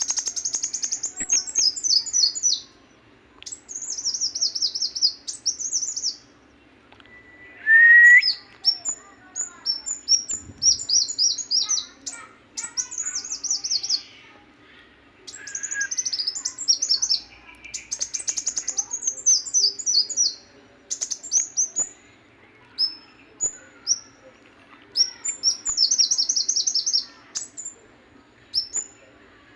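A songbird singing repeated phrases of rapid, high-pitched chirps, each phrase a second or two long with short pauses between them. A single louder, lower note comes about eight seconds in.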